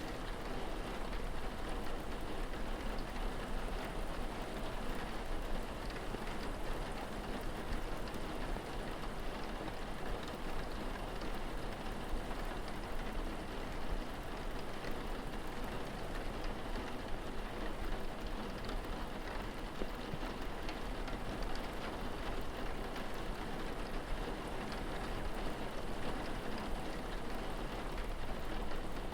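Steady rain falling, an even patter of drops on a surface without pause.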